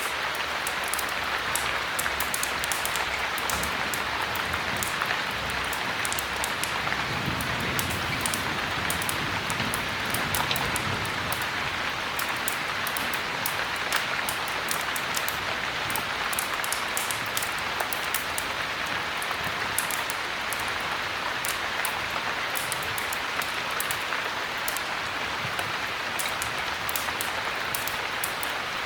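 Steady heavy rain falling, an even hiss dotted throughout with many sharp high ticks.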